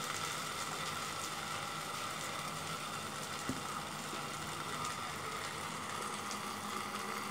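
Green chillies stuffed with raw-mango pickle frying in oil under a lid: a soft, steady sizzle with a faint steady hum beneath it and one small tick midway.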